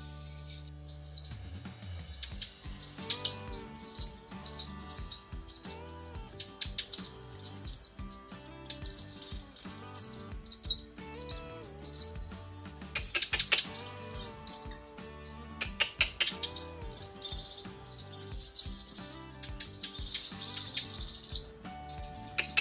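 Cucak kinoi song, a female calling for a male: strings of short, sharp high chirping notes, several a second, in bursts a few seconds long separated by brief pauses.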